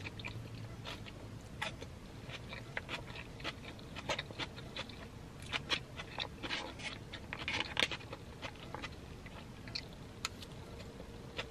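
Close-miked eating sounds: chewing and wet mouth clicks on chow mein noodles and chicken, mixed with a plastic fork tapping and scraping in a foam takeout box. The sounds come thickest a little past halfway.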